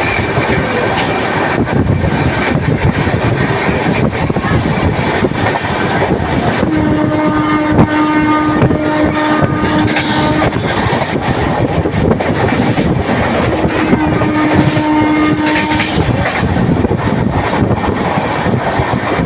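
A moving train, running with loud steady rattling and clatter from its wheels and cars. A horn sounds twice: one long blast about seven seconds in and a shorter one about fourteen seconds in.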